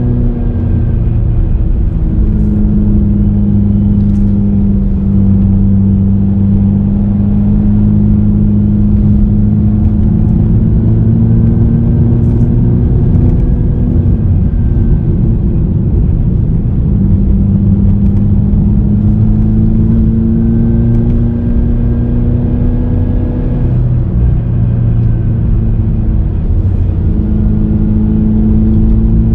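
Suzuki Swift Sport ZC33S's turbocharged 1.4-litre four-cylinder engine pulling uphill under load, heard from inside the cabin with road noise. Its pitch creeps slowly upward and drops back a few times as the throttle eases or the gears change.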